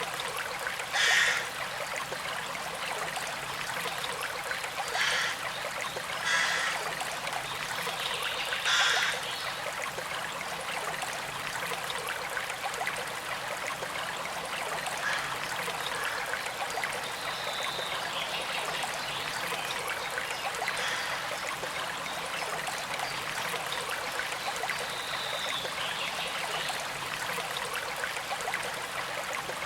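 Small stream flowing and trickling steadily, with a few brief louder gushes of water in the first ten seconds.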